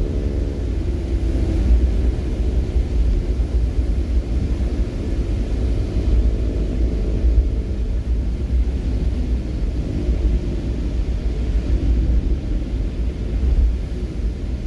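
A motor vehicle running on the road: a steady low rumble of engine and road noise, with an engine tone that rises and falls a little as it goes.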